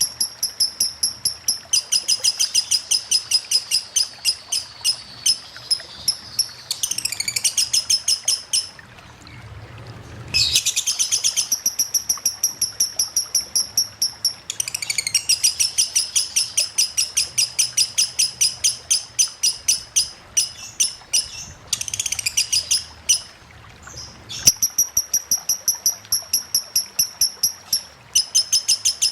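Lovebird singing its 'ngetik' song: long runs of rapid, high, evenly repeated chirping notes that stop for brief pauses twice. This is the long, unbroken ngetik of a 'konslet' lovebird.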